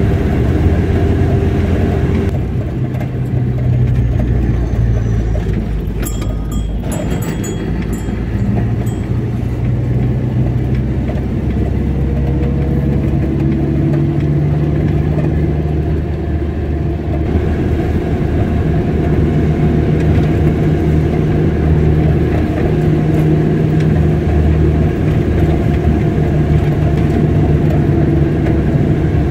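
Car engine and road noise while driving: a steady low rumble whose engine note shifts in pitch a few times as speed changes.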